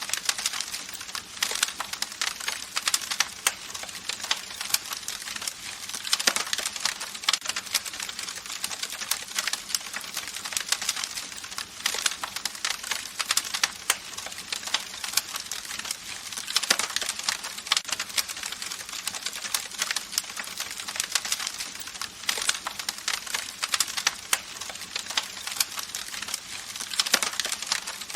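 Campfire crackling: a dense, unbroken run of small pops and snaps over a soft hiss of burning, with brief flurries of louder crackles every few seconds.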